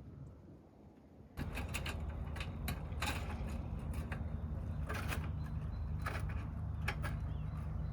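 A motor running with a steady low hum that cuts in suddenly about a second and a half in, with scattered clicks and knocks over it.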